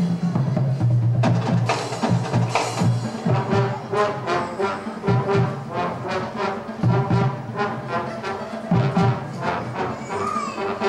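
Elementary school marching band playing brass and drums. Sustained low brass notes in the first few seconds give way to a steady beat of drum strokes under a repeated note.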